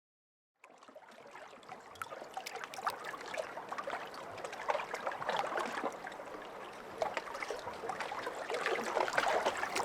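Babbling, trickling water like a small stream, fading in about a second in and slowly growing louder.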